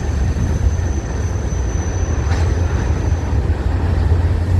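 Freight train cars rolling past close by: a steady, loud, low rumble of wheels on rail, with a thin high tone that fades out about three quarters of the way through.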